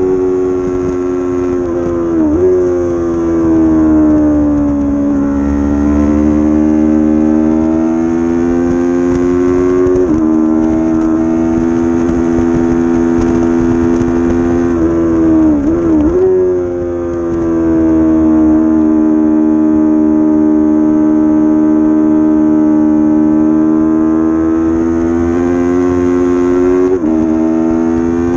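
Racing motorcycle engine at high revs heard from a camera on the bike, running hard and steady on track. The engine note drifts slowly and changes pitch sharply with gear changes about 2, 10, 16 and 27 seconds in.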